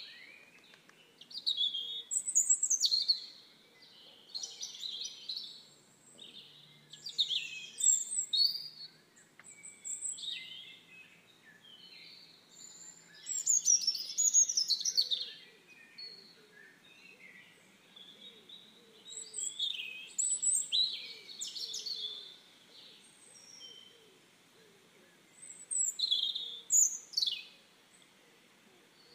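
Wild birds singing and calling in bursts every few seconds: quick high chirps and fast falling trills, with quiet pauses between the phrases.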